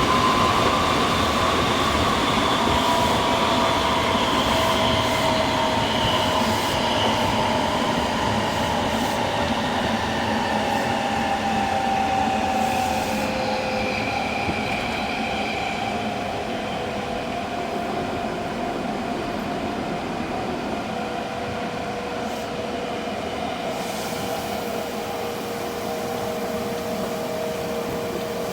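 Semboku 5000 series train's Hitachi SiC VVVF inverter and traction motors whining in several tones that fall steadily in pitch as the train slows, over a steady rumble of wheels on rail.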